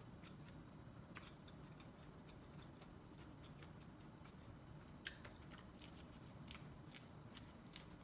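Faint chewing of a mouthful of corn on the cob: scattered soft, irregular clicks and crunches of kernels, a couple of them a little sharper about a second in and around five seconds in.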